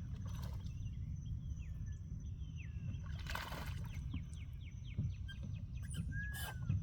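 Outdoor pond ambience with birds calling: a run of short falling whistled notes, then one longer arching whistle near the end. This sits over a steady low rumble and a thin steady high tone, with a brief rushing noise about three seconds in.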